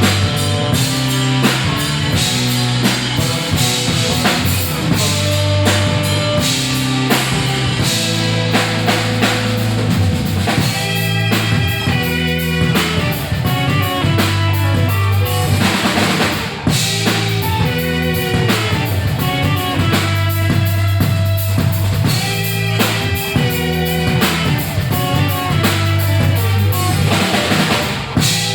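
Rock band playing an instrumental blues-rock passage: drum kit with bass drum and snare keeping a steady beat under a repeating bass line and electric guitar.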